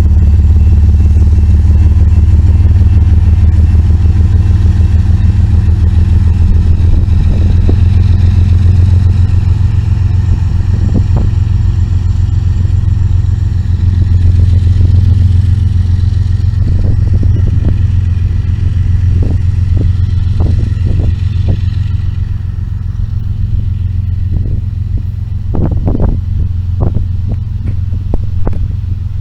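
Loaded freight train rolling slowly uphill past the trackside: a steady low diesel locomotive rumble that eases after about twenty seconds, while the clicks and clanks of steel wheels on the rails grow more frequent near the end.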